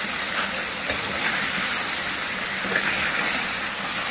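Chicken pieces sizzling in hot oil in a steel kadai over a high flame, stirred with a steel ladle that scrapes and taps the pan a few times.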